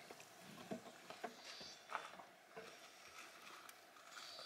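Near silence with faint, scattered light clicks and scrapes of a plastic fork and a cracker against food on a paper plate.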